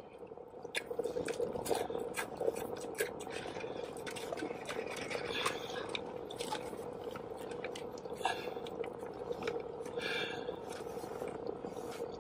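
Close-up chewing of a Popeyes fried chicken sandwich, irregular wet smacking and crisp crackles of the crunchy breading, with a fresh bite taken about halfway through.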